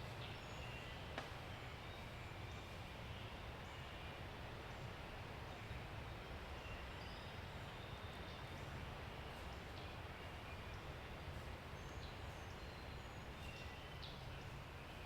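Faint woodland ambience at dawn: scattered short, high songbird chirps over a steady low rumble and hiss, with a single faint click about a second in.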